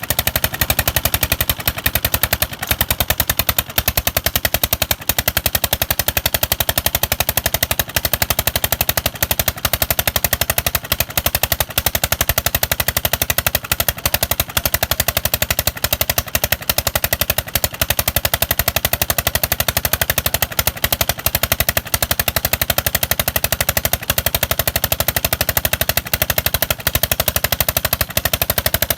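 Old diesel engine driving a tube-well water pump, running steadily after a hand-crank start, its exhaust giving a fast, even stream of sharp pops.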